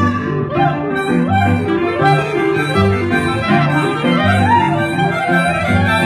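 Live band music: a bass line under a melody whose notes slide up and down.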